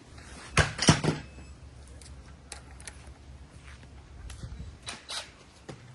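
A cluster of sharp knocks and clanks about half a second to a second in, then scattered lighter clicks: tools and parts being handled during work on a riding mower's deck spindle.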